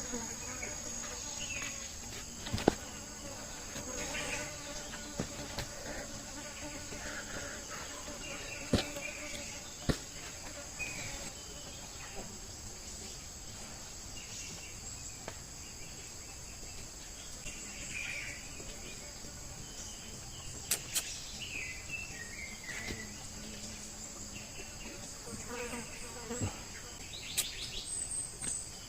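Steady high-pitched chorus of insects calling, with scattered short chirps and a few sharp clicks or taps.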